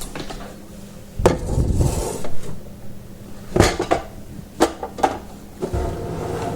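Knocks, clatter and rubbing as an espresso machine is handled and moved onto a counter, with several sharp bumps and low scraping noise between them.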